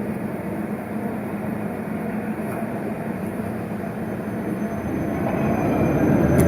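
Tram running on street track with a steady low hum, growing louder over the last second or so as it approaches.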